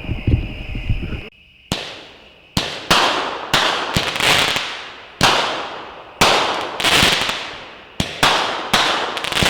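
A 9-shot 200-gram consumer firework cake (Shogun 'Blueprint') firing a string of sharp reports. Each report is followed by a crackling sizzle that fades over about a second, from the cake's gold willow shells with crackling stars. There is a brief drop-out at an edit a little over a second in.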